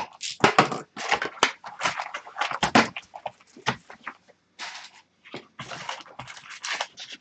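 Trading cards and their packaging being handled: irregular rustling, sliding and tapping in quick, uneven bursts.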